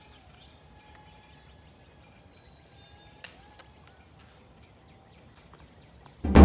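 Quiet ambience with a few faint thin chirps and a single click about three seconds in. A loud sound starts right at the end.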